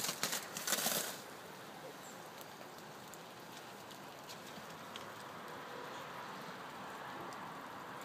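Freezing rain falling steadily, an even hiss with scattered faint ticks. A few sharp clicks and a brief louder rustle come in the first second.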